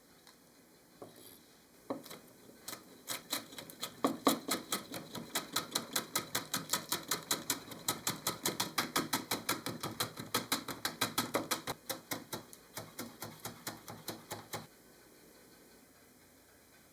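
Knife chopping rapidly on a cutting board, an even run of about four or five strokes a second that starts about two seconds in and stops abruptly near the end.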